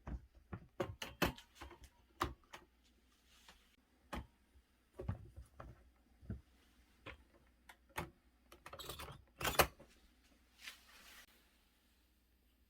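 A series of irregular clicks, knocks and rattles, as of things being handled, with a few short rustles; they thin out and stop near the end.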